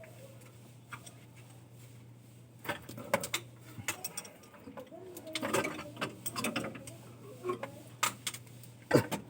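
Metal hand tools clicking and clinking against engine parts in scattered, irregular strokes, over a steady low hum that drops out for about a second around four seconds in.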